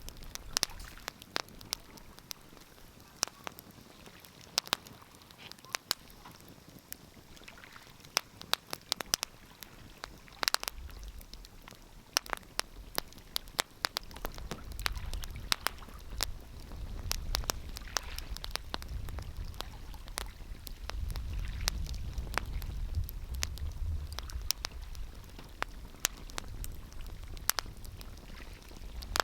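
Wood fire crackling, with scattered sharp pops and snaps. A low rumble comes up from about halfway through.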